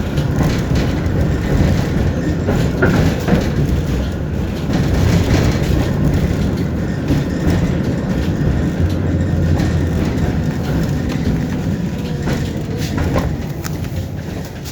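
Tram running along the rails: a steady rumble with wheel clatter and scattered clicks from the track, getting quieter near the end.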